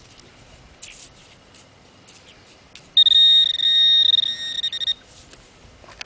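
A metal detector gives a steady high-pitched alert tone for about two seconds, starting about three seconds in: it is signalling a metal target, which is an old rusty nail. Light scraping and ticking in the sand can be heard before and after the tone.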